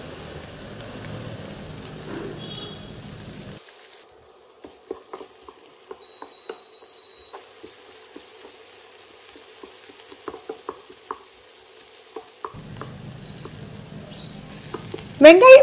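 Sliced shallots and curry leaves sizzling as they are sautéed in sesame oil in a nonstick pan. A wooden spatula stirs them, with a run of light taps and scrapes against the pan from about four seconds in to about twelve.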